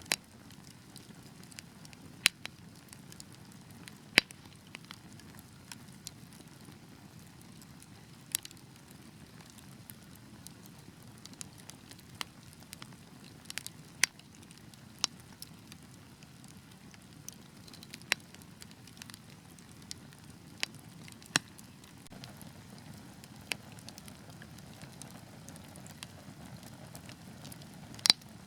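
Wood fire burning with a steady low hiss, broken by sharp irregular crackles and pops every second or so, a few much louder than the rest.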